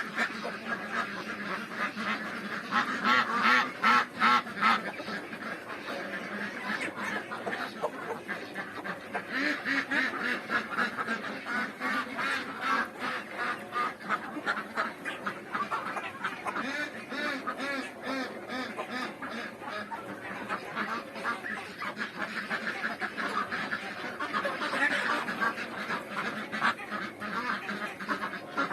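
A flock of Pekin ducks quacking, many short calls overlapping without a break, loudest for a couple of seconds near the start.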